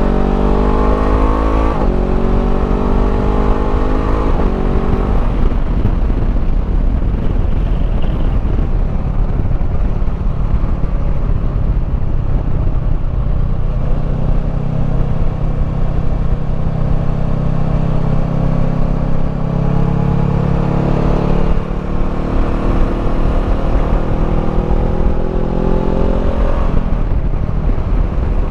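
Honda CBR500R's parallel-twin engine through a Termignoni slip-on exhaust, accelerating with upshifts about two and four and a half seconds in. It then runs at a steady engine note under heavy wind rush and pulls up in pitch again near the end.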